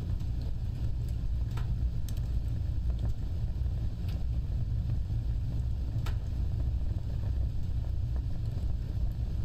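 Wood fire burning with a steady low rumble of flames and a handful of sharp crackles and pops from the burning wood.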